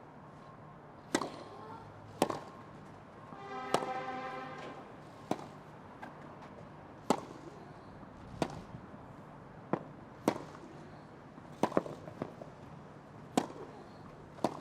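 Tennis rally: sharp pops of racket strings striking the ball, about every second to second and a half, with a short pitched cry about four seconds in.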